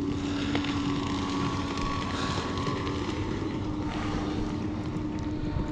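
A steady motor drone holding one low pitch, with no change in speed.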